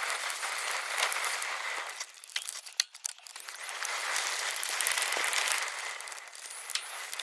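Mountain-bike tyres rolling over a forest trail, a steady rushing hiss with scattered crunches and crackles from gravel and leaves, briefly quieter about two to three seconds in.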